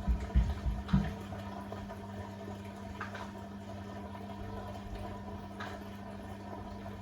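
Beko WTK104121A washing machine on its rinse cycle: a few low thuds from the drum in the first second, then a steady hum from the drain pump as water runs out of the machine.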